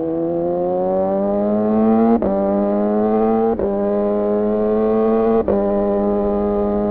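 2014 Yamaha R6 inline-four sport bike running through an R9 titanium muffler and Leovince header, revving up under throttle. Its note is then broken by three brief cuts, like quickshifter upshifts, before it carries on at a nearly steady pitch.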